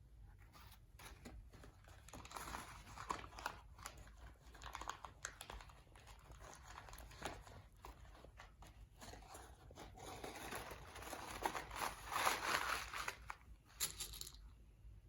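Paper coffee filters crinkling and rustling as they are handled and pushed along a jute twine, in irregular bursts with small clicks, loudest over the last few seconds and stopping about a second before the end.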